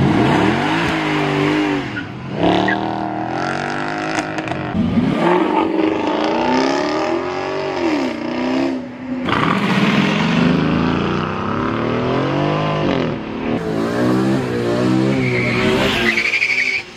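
A run of high-performance cars revving hard and accelerating away, the engine note climbing and dropping back with each gear change: first a Mercedes CLK 63 AMG Black Series V8, then a Jaguar XK, then a BMW E46 M3 straight-six passing close. A high squeal near the end, typical of tyres losing grip.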